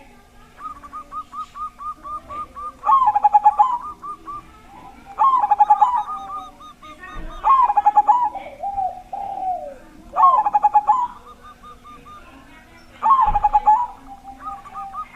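Zebra dove (perkutut) cooing: five loud phrases of stuttering coos, roughly every two and a half to three seconds. Between the phrases runs a quieter fast string of repeated notes.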